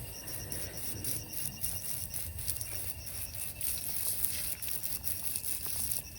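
Running river water with light clicking and rattling of small stones.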